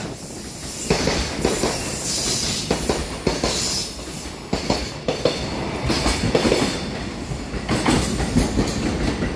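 Koki container wagons of a freight train rolling past, many of them empty flatcars, their wheels clattering over the rail joints in a run of repeated clacks. The clatter gets louder about a second in.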